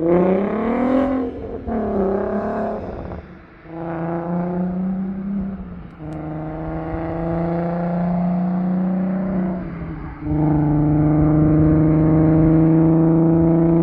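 Volkswagen Golf IV R32's 3.2-litre VR6 engine through a 3.5-inch exhaust, revved in quick blips, then held at steady revs; it gets louder a little past ten seconds in and holds there.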